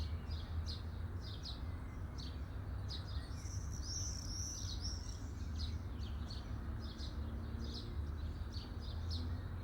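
Birds chirping: one bird repeats a short, falling high chirp about twice a second, and another sings a brief warbling phrase about three seconds in, over a steady low hum.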